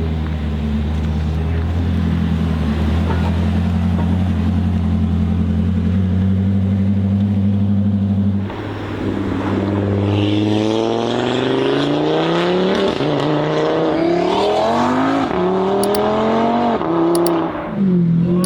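A high-performance car engine runs at a steady, loud note, then accelerates hard from about ten seconds in, its revs climbing with a couple of quick steps down in pitch at the gear shifts, before falling away near the end.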